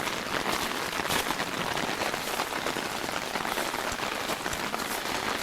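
Hard rain falling steadily, with many close drop hits, over the rush of storm runoff water flowing in streams.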